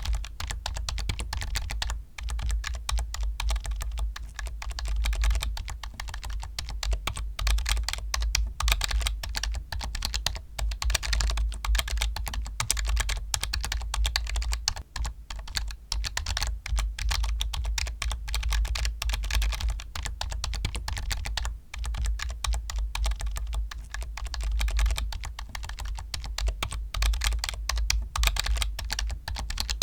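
Continuous fast typing on a computer keyboard: a dense run of key clicks with a deep thud under the strokes and only a few brief pauses.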